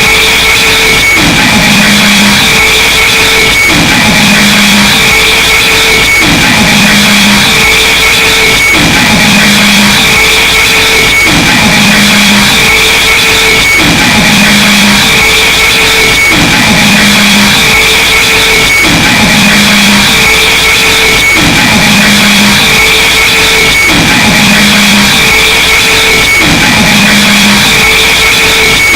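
Harsh noise music: a very loud, unbroken wall of distorted noise over a looped figure, a falling tone that settles into a held low drone, repeating about every two and a half seconds.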